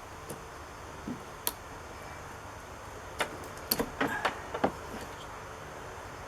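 Scattered light clicks and knocks of parts and hand tools being handled during work on a car's side mirror: a few single clicks, then a quick run of about eight between three and five seconds in, over a steady background hiss.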